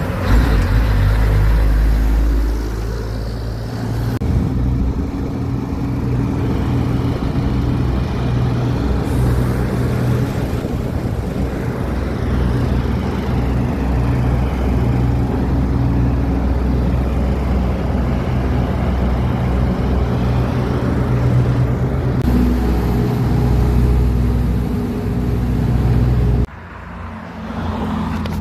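Truck engine running with a steady low rumble, in several cut-together takes, so the sound changes abruptly a few times and drops sharply near the end.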